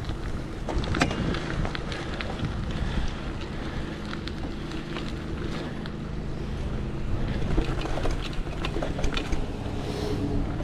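Wind rushing over the microphone on a moving bicycle, with steady tyre rumble and scattered small clicks and rattles.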